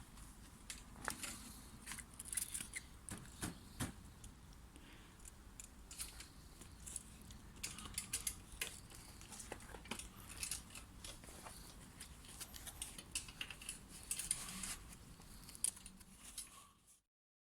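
Irregular light clinks, ticks and rustles of small hard objects being handled, cutting off abruptly near the end.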